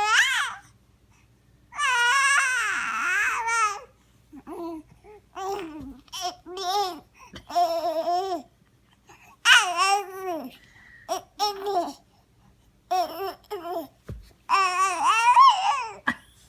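Baby girl babbling and squealing in a string of high-pitched vocal sounds that rise and fall in pitch, with a long drawn-out squeal a couple of seconds in.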